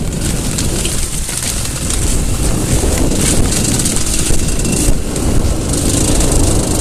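Aprilia ETX Tuareg 125's single-cylinder two-stroke engine running under way, with wind rushing on the microphone.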